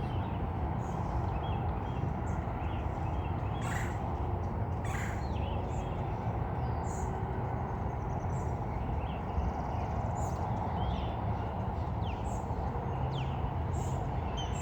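Birds calling outdoors: many short, scattered high chirps and a few quick falling notes, over a steady low rumble of background noise.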